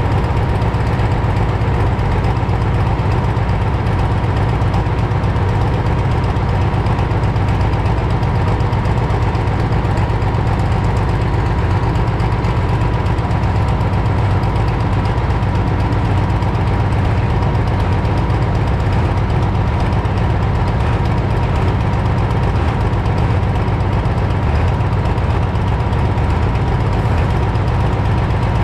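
A modified pulling tractor's diesel engine idling steadily, with a faint steady whine on top and no revving.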